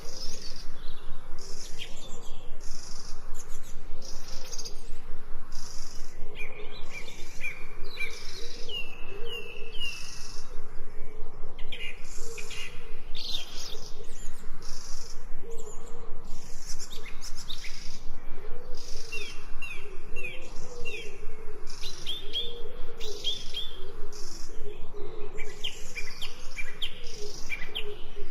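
Birds chirping and trilling, with many short, repeated high calls that overlap one another, over a steady, rapidly pulsing lower background chorus.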